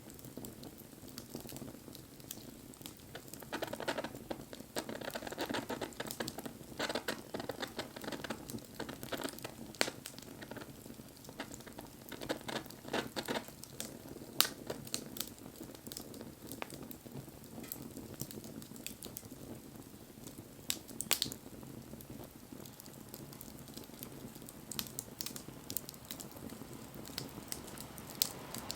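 Wood fire burning, crackling and hissing steadily, with scattered sharp pops of burning wood. A few louder pops stand out, and the crackle is busiest in the first half.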